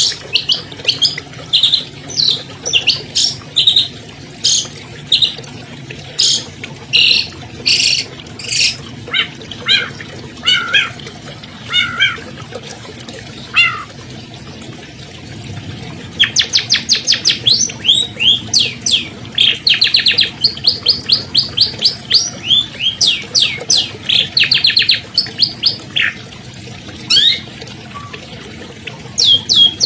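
Long-tailed shrike (cendet) singing a loud, varied song of sharp chirps and downslurred notes, going quiet for about two seconds midway, then fast runs of rapidly repeated notes.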